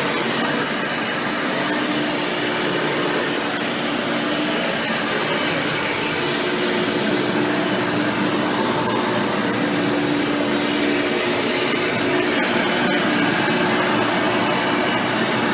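Hoover Power Drive Supreme upright vacuum running steadily while cleaning. Its motor is fitted with a 20-blade impeller fan, and the motor tone wavers slightly in pitch.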